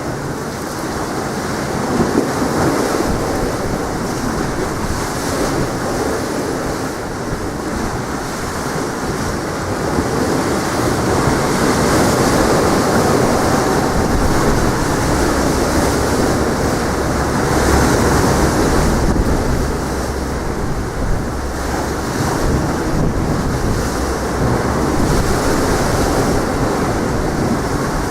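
Sea waves washing on the shore with strong wind buffeting the microphone, a steady rushing noise that swells and eases every few seconds.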